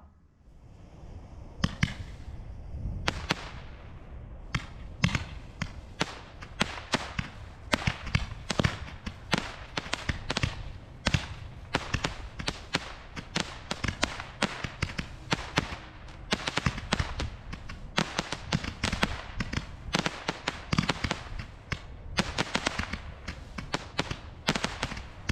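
Two packs of Roman candles fused together on a stand, firing a rapid, continuous string of sharp pops and loud bangs, several a second. It starts almost quiet and the shots begin about a second and a half in.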